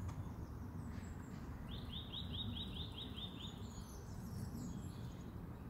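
A small songbird sings a quick run of about eight repeated, slightly rising notes a couple of seconds in, with fainter high chirps later, over a steady low rumble.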